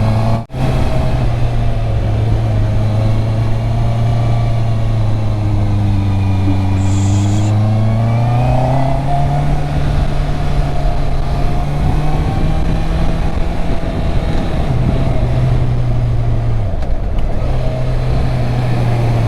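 Honda CB650R's inline-four engine on its stock exhaust, running at steady revs while riding downhill. The revs climb about eight seconds in and drop back near seventeen seconds in.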